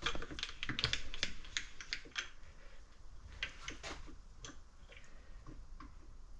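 Irregular light clicks and ticks from working the milling machine's controls as the table is brought into position, quick and dense in the first two seconds, then sparser.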